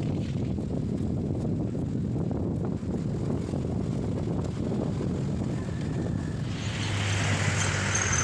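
Wind rumbling on the microphone of a bicycle rider. Near the end a motor vehicle comes up close, its tyre hiss and low engine hum growing louder.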